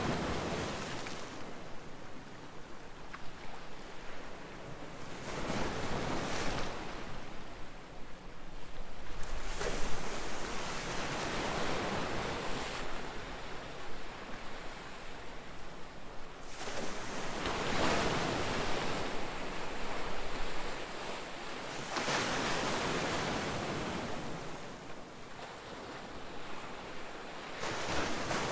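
Ocean surf: waves breaking and washing up the shore, each one swelling and fading every four or five seconds.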